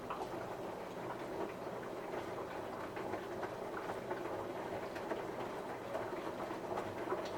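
Samsung front-loading washing machine in the wash phase of a 60 °C cotton cycle: the drum turning and tumbling wet laundry, a steady churning with many small clicks and knocks. It picks up right at the start and runs on evenly.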